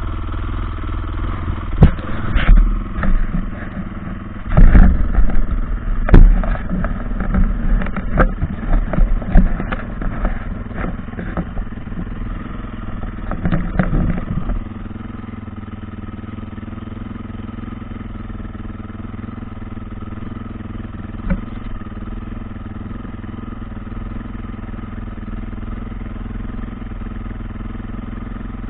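Dirt bike engine running steadily at idle, with a string of sharp knocks and clattering bangs over the first half that stop about halfway through.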